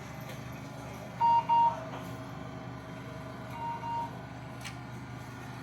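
Short electronic beeps inside a stationary tram, over the steady hum of its equipment. A loud pair of beeps comes a little over a second in, and a fainter pair comes about four seconds in.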